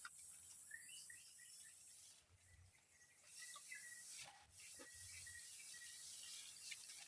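Faint forest ambience: a run of short high chirps repeated a few times a second, over a steady high hiss, with a few faint drip-like clicks.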